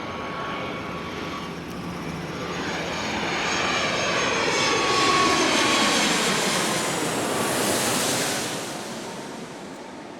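Airplane flying over: the engine noise swells to a peak about halfway through and then fades, its pitch sliding steadily down as it passes.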